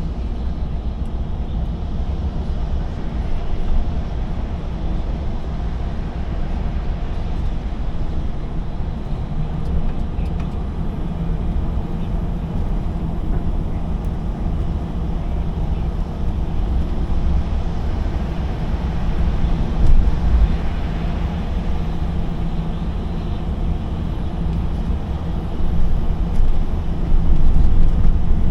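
Lorry's diesel engine and road noise while driving, a steady low drone with louder swells about twenty seconds in and near the end.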